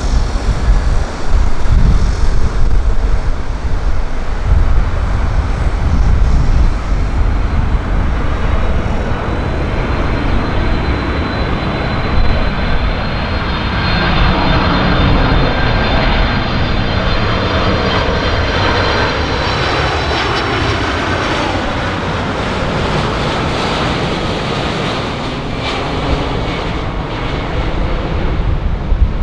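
Boeing 747-400 airliner on its landing approach, its four turbofan engines giving a steady jet roar with a high fan whine. The tones glide in pitch as the plane passes. There is gusty wind rumble on the microphone, strongest in the first few seconds.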